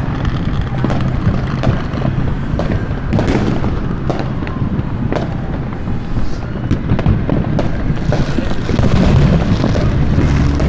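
Many fireworks going off at once, with sharp bangs and booms at irregular intervals over a continuous low rumble of overlapping explosions.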